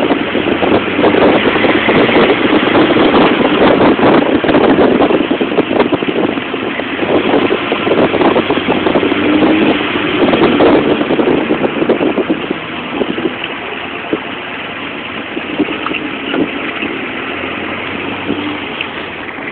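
Tiger Cat E1 roadster's engine running, louder for about the first twelve seconds, then dropping to a quieter, steadier note.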